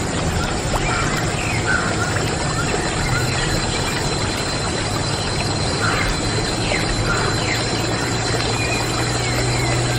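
Water pouring in a steady stream from a small homemade toy water pump, with short high chirps scattered through it.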